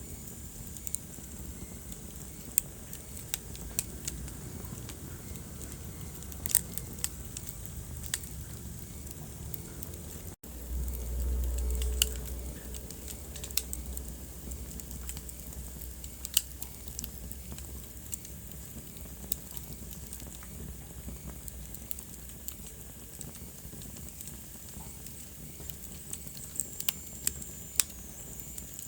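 Wood fire crackling, with sharp pops at irregular intervals over a steady hiss and low rumble. About a third of the way in the sound cuts out for an instant, then the low rumble swells louder for a couple of seconds.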